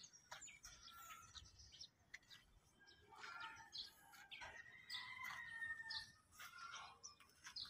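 Faint bird chirps, scattered short calls with one longer held call in the middle.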